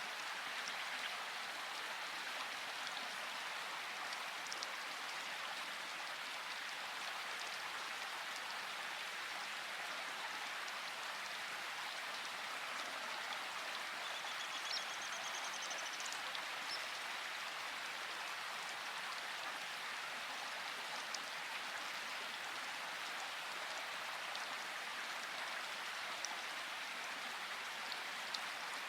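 Steady rain: an even hiss with scattered single drops ticking.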